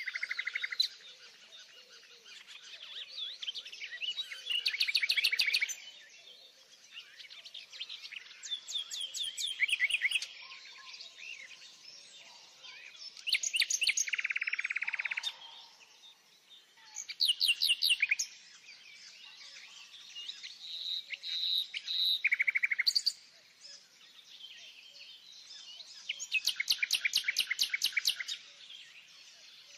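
Songbirds singing: short bursts of rapid, trilled high notes every few seconds, with softer chirps in between.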